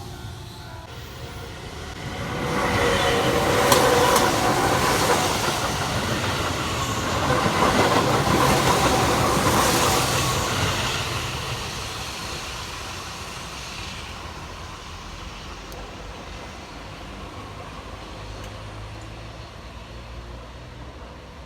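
A Keihan electric train passing on the Keihan Main Line: the rumble and wheel noise swell about two seconds in, stay loud with a few sharp clicks from the wheels on the rail joints, then fade slowly as it moves away.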